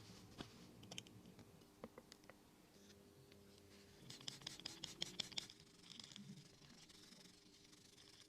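Faint scratching with scattered light clicks, and a quick run of small ticks about halfway through, over a faint steady hum.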